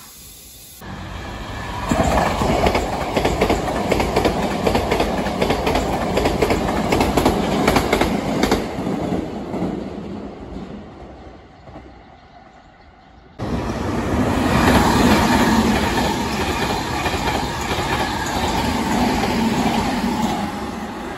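Two Hankyu limited-express trains running through the station one after the other. First a 1000 series train passes, its wheels clattering on the rails, and fades away. About thirteen seconds in, a sudden cut brings in an 8000 series train passing close by.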